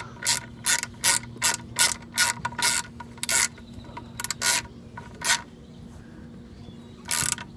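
Ratcheting hand tool clicking in quick strokes, about two or three a second, slowing to a few spaced clicks and one last click near the end, as the screws of a mini bike's cover plate are run in.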